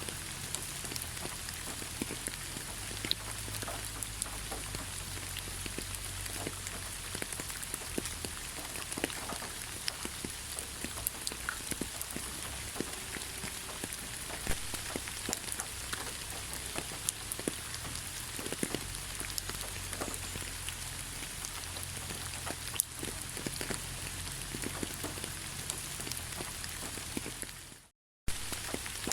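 Steady rain, many separate drop ticks over an even hiss with a low rumble underneath. About a second before the end it fades out to a brief silence and then starts again.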